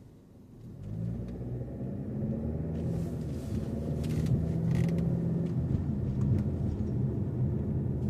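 Car engine and road rumble rising quickly about a second in, then running steadily as the car gets under way.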